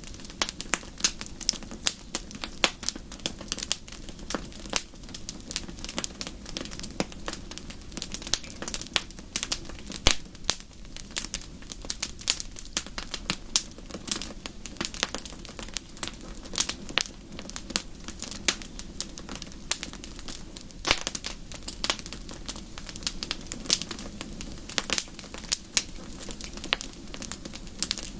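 Fire in a fireplace crackling, with many sharp pops at uneven intervals over a steady low background.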